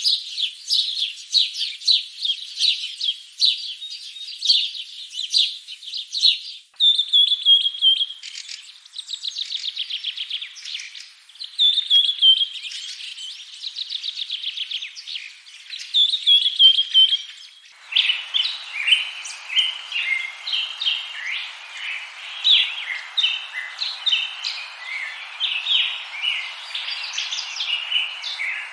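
Small songbirds chirping and singing: quick dense chirps, then repeated trilled phrases that drop in pitch. About two-thirds through, the sound switches to a busier chorus of short chirps over a steady hiss.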